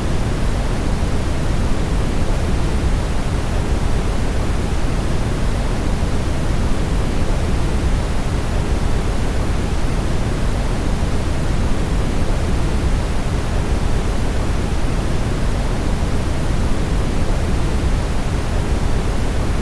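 Brown noise: a steady, even hiss-and-rumble, strongest in the deep bass and thinning toward the treble, with no change over time.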